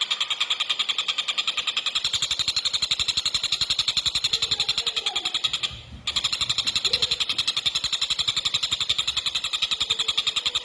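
Tengkek buto (kingfisher) calling in a long, very fast, even rattling trill of high notes, the 'rapat' (tight) rapid delivery prized for masteran. The trill breaks off briefly about six seconds in, then resumes.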